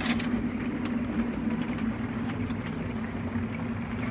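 Steady low mechanical hum with a light hiss over it and a few faint ticks.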